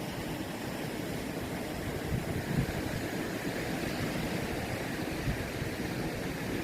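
Ocean surf: a steady wash of breaking waves with a low rumble underneath.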